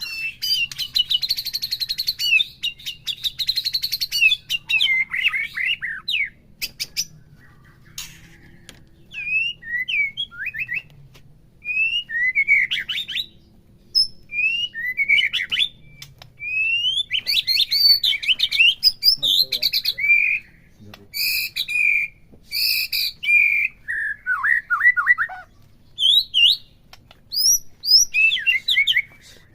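White-rumped shama (murai batu) singing a varied song of short whistled and slurred phrases broken by pauses, opening with a fast, dense run of high notes and with sharp clicking notes a few seconds in. It is a full, vigorous song of the kind played to a captive shama to rouse it into singing.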